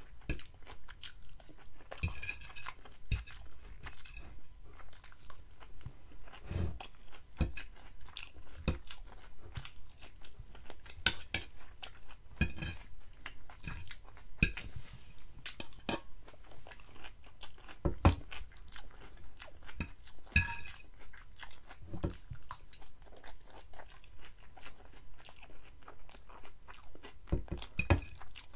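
Close-up chewing and crunching of crisp lettuce and avocado salad, with a metal fork clinking and scraping on a glass bowl several times.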